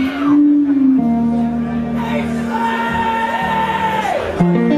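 Live rock band playing a slow ballad, with long held notes; one high note slides down in pitch about four seconds in.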